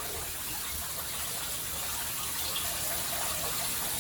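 Shower spray running steadily, an even hiss of falling water.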